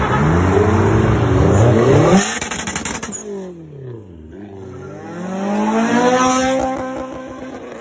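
Car engines revving hard under acceleration: the pitch climbs and falls, drops away near the middle, then rises again as a car comes loud past, about six seconds in.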